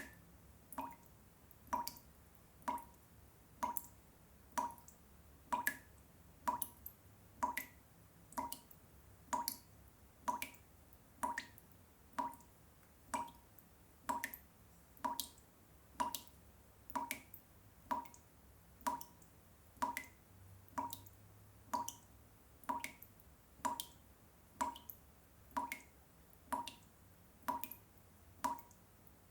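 Water drops falling one at a time into water, a steady repeating plop a little more than once a second.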